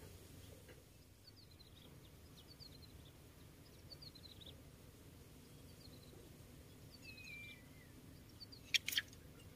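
Small birds chirping faintly in short falling notes, with one longer falling whistle, over a steady low background noise. Two sharp clicks come close together near the end.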